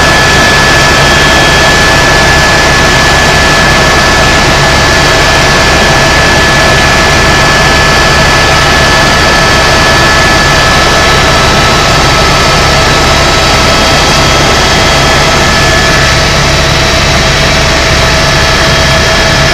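Tour helicopter's turbine engine and rotor running steadily, heard from inside the cabin: a loud, even rush with several steady whining tones over a low hum.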